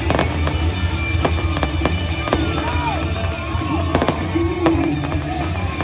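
Fireworks going off in irregular sharp bangs over loud music, with a few short whistling glides near the middle.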